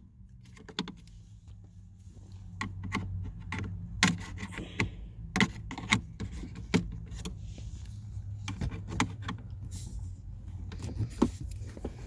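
Plastic interior trim clicking, snapping and rattling as the clipped-on top piece of the shifter console is worked loose by hand, in irregular sharp clicks with a few louder snaps, over a low steady hum.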